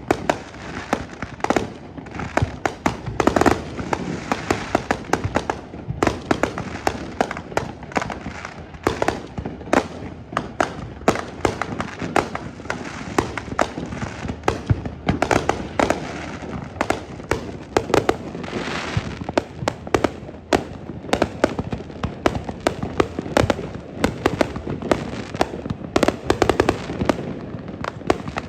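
Fireworks display: a dense, continuous barrage of aerial shell bangs and crackling, many reports a second, with hissing between them.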